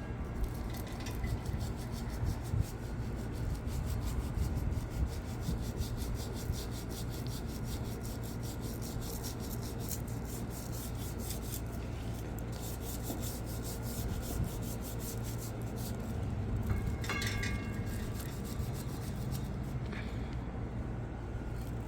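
Steady scrubbing and rubbing, a brush or scourer worked over a grimy hard surface. A few brief ringing chime tones sound about two-thirds of the way in and again near the end.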